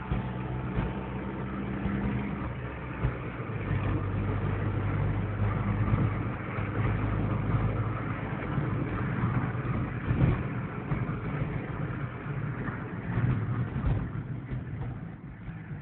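A smart city car's engine running while driving, heard from inside the cabin with road noise, its pitch shifting a few times as speed changes.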